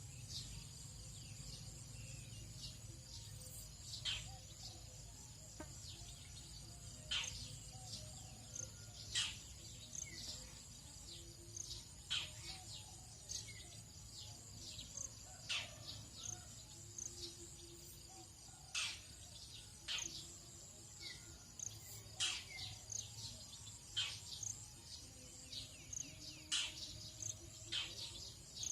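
Tropical dawn chorus: many short, sharp bird calls and chirps, coming more often in the second half, over a steady high-pitched insect trill and a low background rumble.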